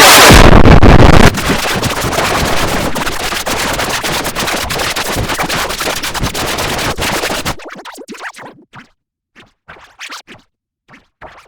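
Loud, heavily distorted and clipped noise with rapid stuttering clicks, loudest in the first second. It cuts off sharply after about seven and a half seconds, leaving only faint short snippets.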